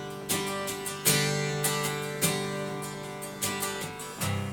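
Acoustic guitar strumming chords, each strum ringing on into the next.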